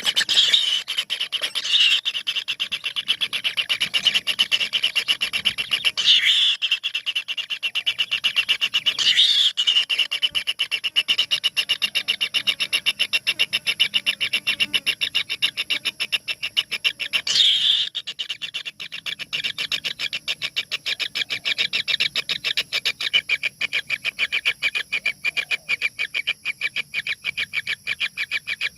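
A brood of kingfisher nestlings in a nest hole giving a continuous, rapid rasping chatter of begging calls, swelling in louder flurries several times.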